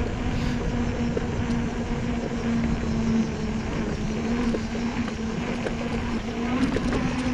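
Steady rumbling road and wind noise from riding a bicycle, under a steady low hum.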